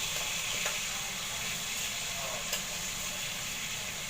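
Chicken frying in a pan, a steady sizzle with a couple of faint clicks.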